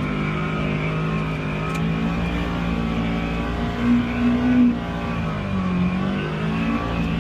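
Polaris Xpedition UTV engine pulling steadily under load while climbing a hill. The revs swell louder about four seconds in, then sag briefly before settling again.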